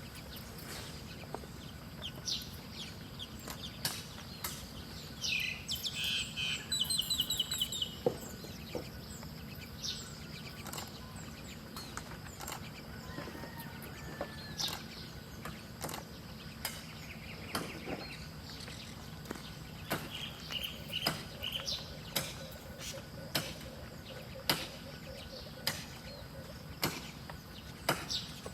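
Small birds chirping in short, scattered calls, with a quick run of repeated notes about six seconds in and another cluster of chirps around twenty seconds in. Scattered sharp clicks and a steady low hum lie underneath.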